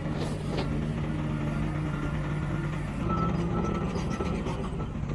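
Heavy diesel earthmoving machine running with its engine note shifting about three seconds in, while a reversing alarm sounds a string of short, evenly spaced high beeps.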